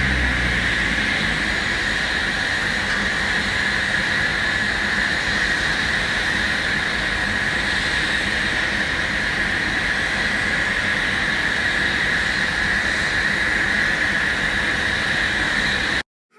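Steady, loud whine and rush of aircraft engine noise on an airport apron, with a low hum falling in pitch and fading in the first second. The sound cuts off suddenly near the end.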